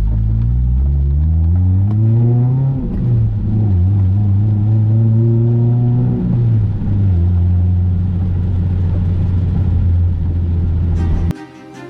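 Toyota 2ZZ-GE four-cylinder engine in an MR2 Spyder, freshly swapped and in its break-in period, pulling moderately up through the gears. The pitch rises, drops at a shift a little under 3 s in, rises again, drops at another shift about 6.5 s in, then holds steady at a cruise. Music cuts in near the end.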